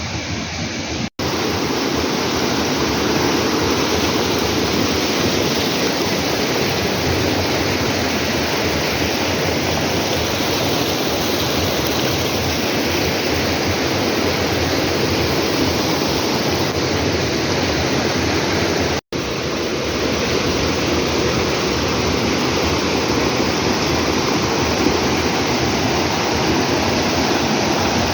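Waterfall: a steady, loud rush of falling water with no change in level, broken only twice by a split-second dropout.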